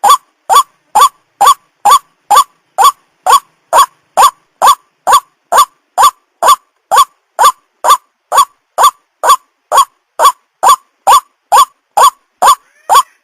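White-breasted waterhen (ruak-ruak) call: one short harsh note repeated steadily about twice a second, each note sweeping upward, in the monotonous series used as a lure call to attract the bird.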